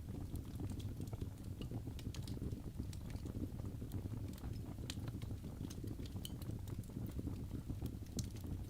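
Birch logs burning in a fireplace: a steady low rumble of flames with frequent irregular sharp crackles and pops.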